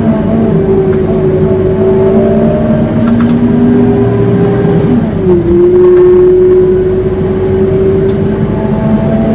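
Scania K230UB city bus under way, its drivetrain giving a loud, steady howl. The howl's pitch dips briefly about five seconds in, then holds steady again.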